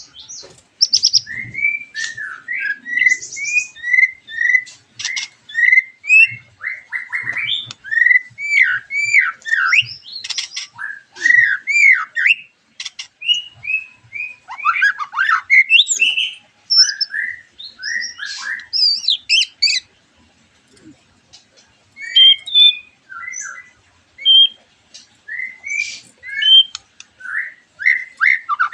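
White-rumped shamas singing in a chorus: rich, varied whistled phrases of rising and falling notes mixed with harsh, scratchy chatter, with a short lull about two-thirds of the way through.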